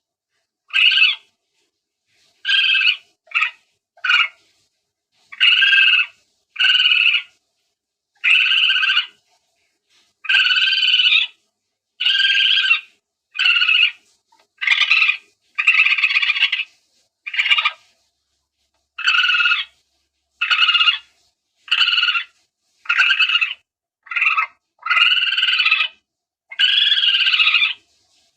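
Palm civet calls played as a hunting lure: about twenty short, raspy calls, each half a second to a second long, some in close pairs, separated by short silences.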